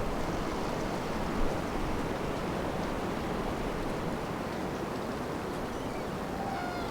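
Strong wind blowing around the tent, a steady rushing noise.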